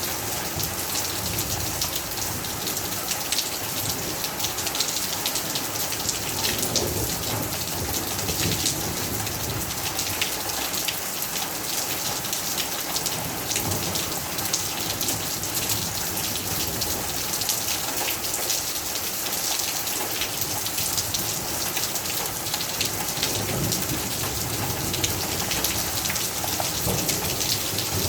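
Heavy rain falling steadily, with many individual drop hits on a surface.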